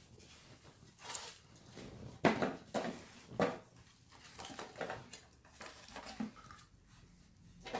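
Cut airplane parts being handled and set down on a table: a series of irregular light knocks, taps and rustles, loudest a little over two seconds in and again about three and a half seconds in.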